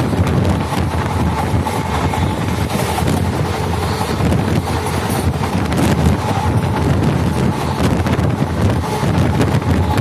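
Indian Railways express train running at speed, a steady rumble of wheels on track, with wind blowing on the microphone from outside the moving coach.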